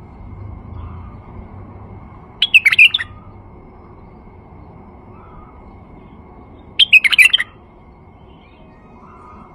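Male white-eared bulbul singing two short, loud song phrases, the first about two and a half seconds in and the second about four seconds later.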